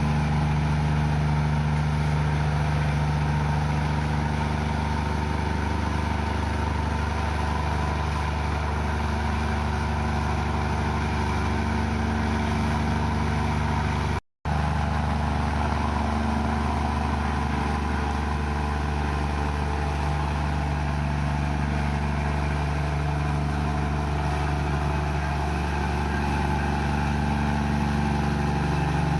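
Komatsu bulldozer's diesel engine running steadily. The sound cuts out for a split second about halfway through.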